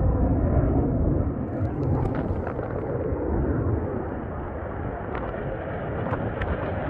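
Fighter jet engine rumble, easing off through the middle and growing louder and brighter again near the end.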